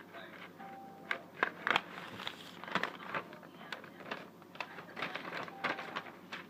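Irregular clicks, taps and crinkling, as of light crafting materials such as paper and sticks being handled.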